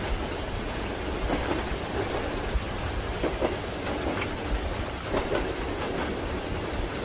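Steady rain pattering, mixed with the low rumble of a moving train and soft, irregular knocks of its wheels on the rails.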